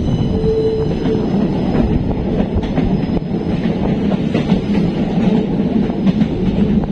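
Passenger train running at speed, heard from on board: a steady rumble of wheels on rails with a few faint clacks.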